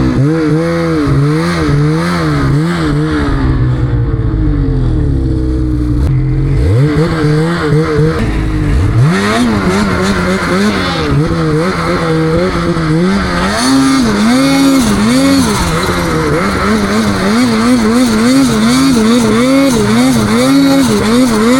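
Snowmobile engine being ridden hard, its revs pumped up and down about once a second with the throttle. The revs sag a few seconds in, then climb sharply twice and hold higher with quick rises and falls to the end.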